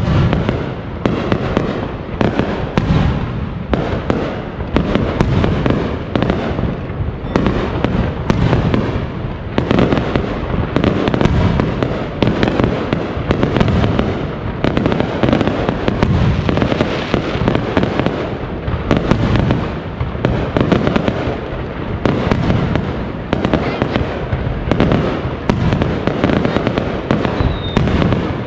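Aerial firework shells bursting in a dense, unbroken barrage: many bangs overlapping one after another.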